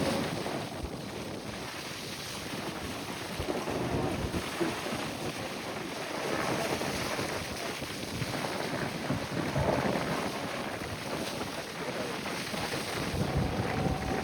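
Strong wind gusting across the microphone, with water and waves beneath it.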